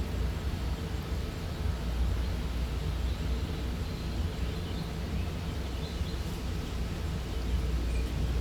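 Outdoor ambience: a steady low rumble with a few faint, brief bird chirps.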